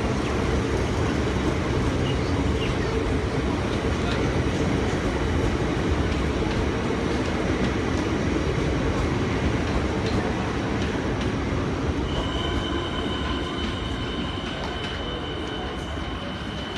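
Siemens electric suburban train rolling steadily past, with a thin high steady squeal coming in about twelve seconds in as the sound begins to fade.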